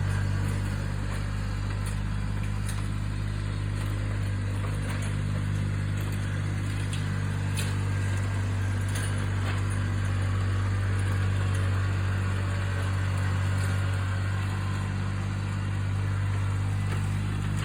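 Riding lawn tractor engine running at a steady speed while towing a lawn sweeper, with a few faint ticks.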